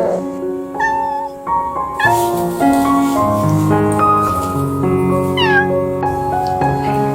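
A cat meowing about three times, the last call falling in pitch, over background music with held piano-like notes.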